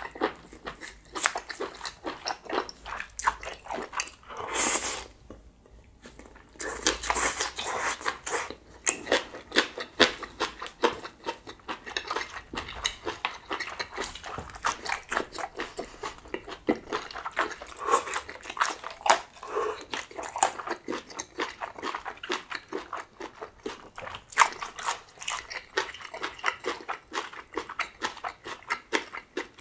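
Close-miked chewing and biting of grilled small octopus and spicy green-onion kimchi, a dense run of sticky mouth clicks and smacks. A longer hissing sound comes about four and a half seconds in and again around seven seconds.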